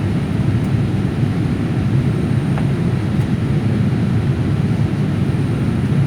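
Steady low rumble of a jet airliner's engines and airflow, heard from inside the passenger cabin in flight.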